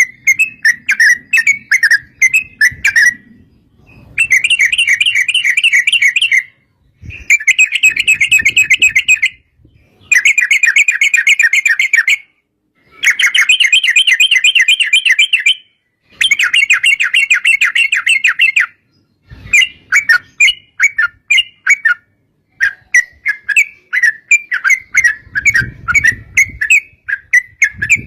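Yellow-vented bulbul (trucuk) singing in long, fast chattering runs of two to three seconds each, broken by short pauses. The notes are looser and more separate at the start and again near the end.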